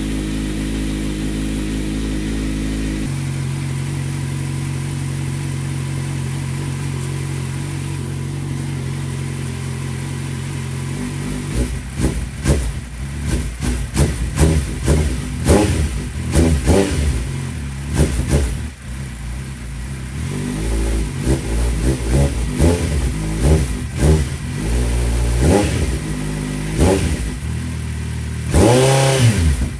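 Motorcycle engine running through custom carbon fibre exhausts: a steady idle for about ten seconds, then a string of quick throttle blips, with one longer rev near the end.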